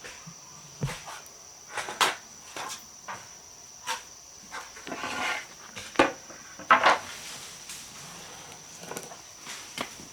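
Scattered knocks and taps at irregular intervals, the loudest a few seconds in, over a steady high-pitched whine.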